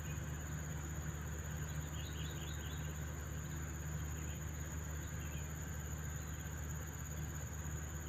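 Small birds chirping: a quick run of thin high chirps about two seconds in and a few fainter ones later, over a steady low hum and a steady high-pitched whine.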